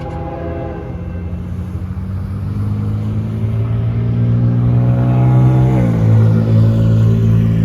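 Diesel-electric freight locomotives, led by a BNSF GE ES44AC, rumbling past under power, growing louder, with the engine pitch dropping abruptly about six seconds in as the lead unit goes by. The tail of the locomotive horn chord sounds in the first second.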